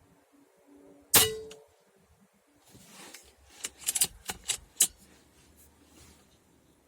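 A single shot from a PCP air rifle about a second in: a sharp crack with a short ring. After it, a quick run of sharp clicks and clacks as the rifle's action is worked to cock it and chamber the next pellet.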